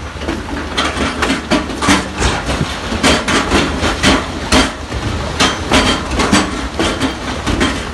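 Rocks and stones clattering and knocking in quick, irregular hits, over the steady low drone of a heavy diesel machine's engine.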